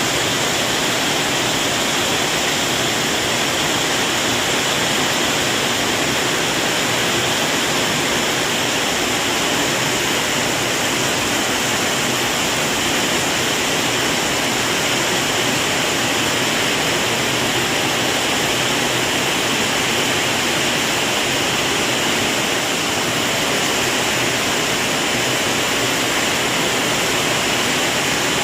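Heavy rain pouring down, a dense steady hiss that neither swells nor breaks.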